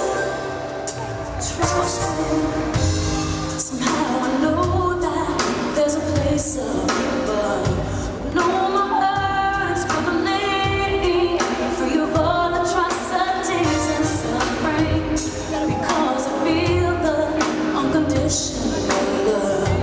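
A female lead vocalist singing a gospel ballad live, with band accompaniment.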